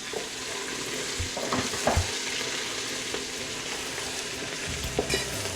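Grated ginger, garlic and chilies sizzling steadily in hot ghee with cumin seeds, stirred with a spoon that knocks against the pan a few times, about a second or two in and again near the end.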